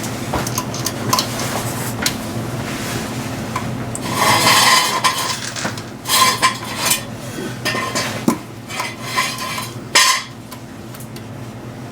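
Steel jack stand being handled and set in place under a transmission: repeated metal clanks and clinks with a short ring, a louder scrape about four seconds in, and a steady low hum beneath.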